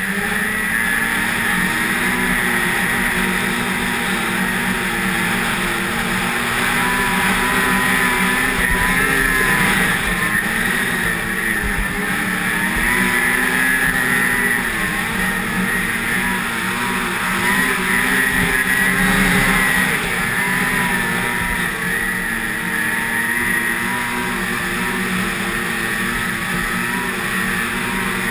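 Snowmobile engine running under way, its pitch rising and falling as the throttle and speed change.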